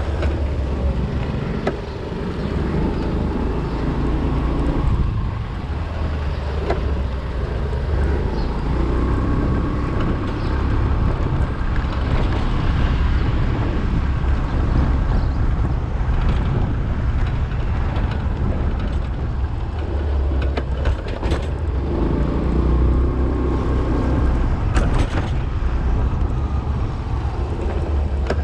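Suzuki Access 125 scooter on the move, its engine and road noise a steady low rumble. A few sharp knocks come in the latter half.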